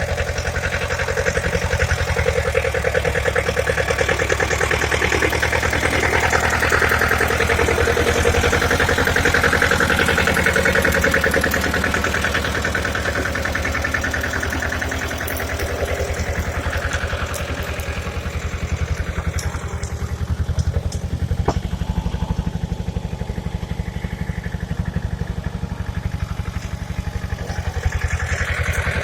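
Pasquali tractor engine running steadily with an even, rapid firing beat; the sound turns a little duller after about sixteen seconds, and there is one sharp click about three-quarters of the way in.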